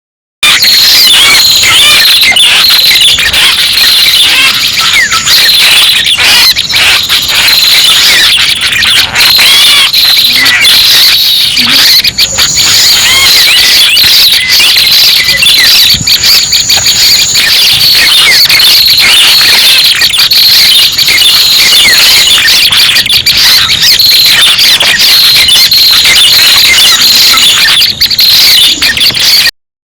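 Loud, dense lure recording of prenjak (prinia) calls: rapid, overlapping chirps and twitters with a busy insect-like buzz beneath, played to attract prinias into a trap. It breaks off in a short silence at the start and again just before the end, where the loop restarts.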